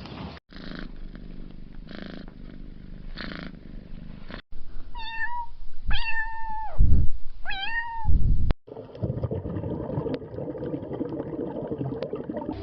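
Domestic cat sounds: three soft, evenly spaced pulses first, then three meows about halfway through, the middle one longer and falling in pitch at its end. A stretch of noisy rustling follows in the last few seconds.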